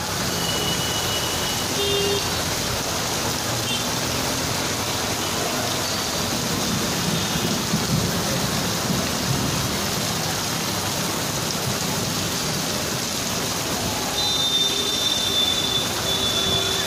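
Heavy rain falling, a steady even hiss of rain on wet surfaces.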